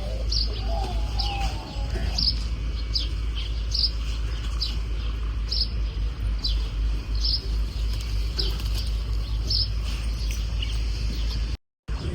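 A bird calling over and over: a short, high, falling chirp repeated roughly once a second, over a steady low rumble. The sound cuts out briefly near the end.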